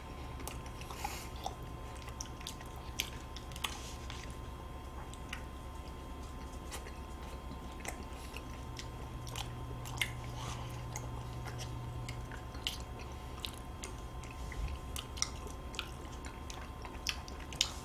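Faint chewing and biting of Cookie-O ice cream sandwiches, soft chocolate cookie wafers around vanilla ice cream, heard as small scattered mouth clicks over a low steady hum.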